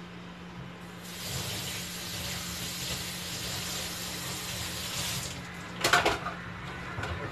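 Kitchen tap running into a sink for about four seconds, then shut off, followed by a brief loud clatter.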